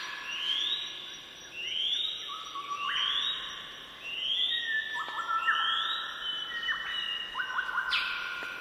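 Bird calls: a rising whistle repeated about once a second, each note leaving a long ringing tail, over other overlapping whistled notes.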